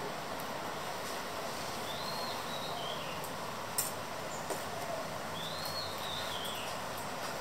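A bird calls twice, about three and a half seconds apart: a short high phrase that rises, then steps down in pitch. Underneath is a steady hiss, and a single sharp click comes about four seconds in.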